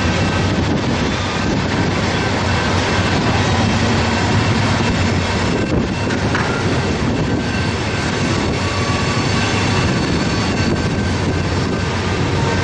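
Freight cars of a loaded rail train, flatcars racked with long welded rail, rolling steadily past: a loud, even rumble and rattle of steel wheels on the track.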